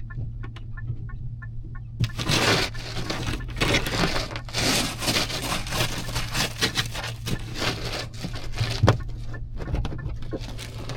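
Dry, powdery snow being crunched and scraped in a quick run of strokes, starting about two seconds in. Under it runs a steady low vehicle hum, with a fast ticking chime about two or three times a second.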